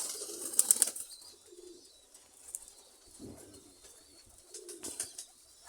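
Domestic pigeons cooing in a few short, low warbling coos. A cluster of sharp clicks comes in the first second.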